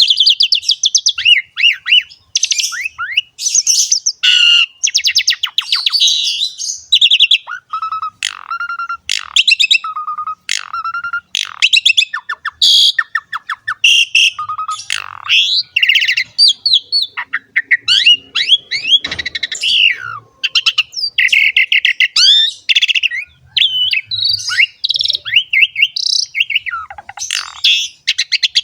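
Asian pied starling (jalak suren) singing continuously: a fast, varied run of whistles, trills and chattering notes with hardly a pause.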